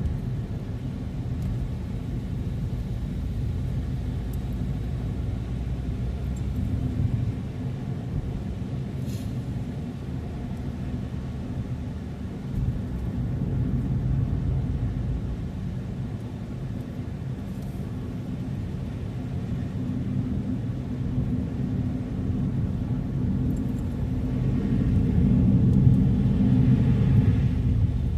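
Car driving along, a steady low rumble of engine and tyres on the road, growing louder a few seconds before the end.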